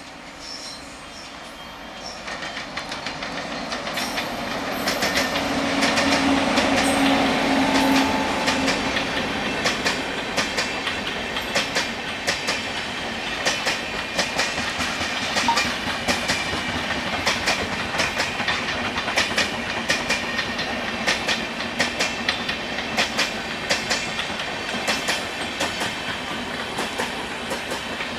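A train rolling past close by. It grows louder over the first few seconds, with the locomotive's hum loudest about six to eight seconds in, then the wheels of the passing coaches or wagons clatter in a steady rhythm over the rail joints.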